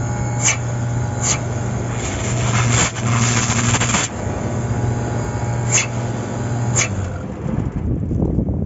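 Package-type air-conditioning unit running with a steady low hum that stops about seven seconds in. Four sharp clicks or knocks sound over it, and there is a burst of hiss around three to four seconds in.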